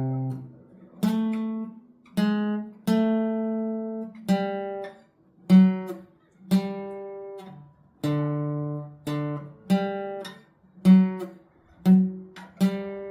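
Acoustic guitar playing a slow single-note melody, each note plucked and left to ring and fade before the next, with short gaps between phrases.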